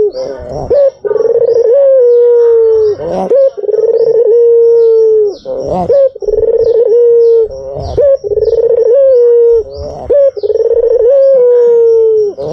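White Barbary dove (puter) cooing over and over: about five loud coos, each a rolling, warbling start that settles into a long steady low note, one every two and a half seconds or so. Faint, quick high ticking runs underneath.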